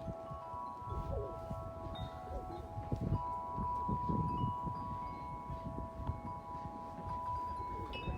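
A 36-inch Corinthian Bells wind chime ringing in strong wind: several tuned tones hang and overlap, with fresh strikes about half a second in and about three seconds in. Gusty wind rumble runs underneath.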